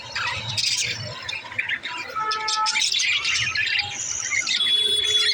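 Several budgerigars chirping and warbling together in a busy, continuous chatter, with a few held whistled notes, the longest near the end.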